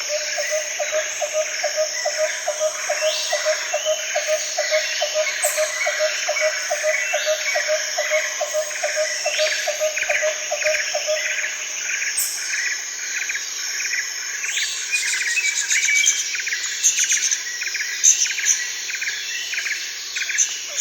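Jungle ambience: a steady high insect drone under many birds chirping and calling over and over. A low call pulses about four times a second and stops about halfway through.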